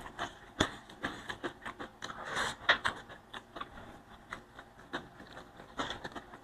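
Close-up chewing and mouth sounds while eating by hand, with irregular short clicks and smacks.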